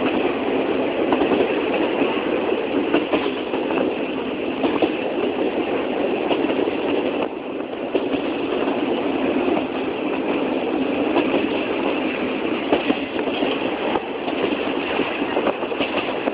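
Train running along the track: a steady rumble with many small clicks and rattles throughout, easing briefly about seven seconds in.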